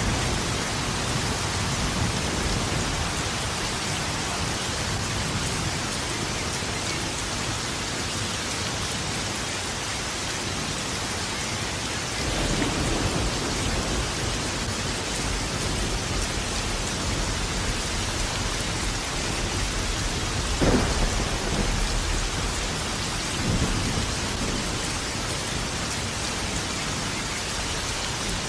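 Steady heavy rain with rolling thunder rumbling underneath. A sharp, louder thunderclap comes about 21 seconds in, with smaller swells of thunder about 12 and 23 seconds in.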